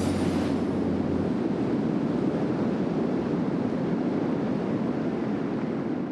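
Steady rushing of river water, a cartoon sound effect.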